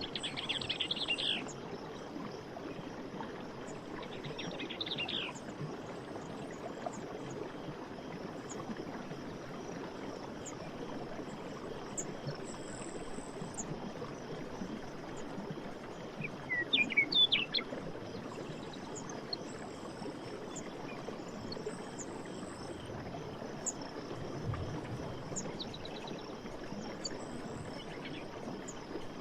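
Forest ambience: running water makes a steady rush beneath birds calling, with quick bursts of chirps near the start, again a few seconds in, and loudest about halfway through. Faint short high chirps are scattered throughout.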